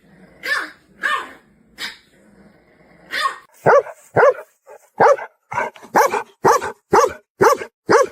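A dog barking: a few softer calls first, then from about three and a half seconds in a fast, steady run of loud barks, about two a second.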